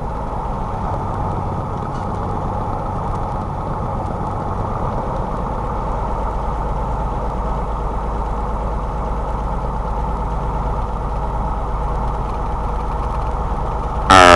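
Cessna 172's four-cylinder piston engine and propeller running steadily at low idle power after landing. Near the end there is a brief loud burst that is most likely a voice.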